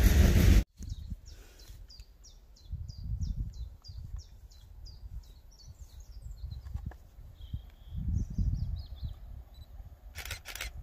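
A loud passing train cuts off abruptly less than a second in. Then a small bird sings a run of quick, repeated falling notes, about three a second, over gusts of wind on the microphone.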